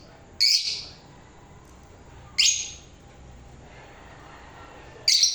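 Lovebirds giving loud, harsh, high-pitched calls, three in all, each short and starting sharply, about two to three seconds apart.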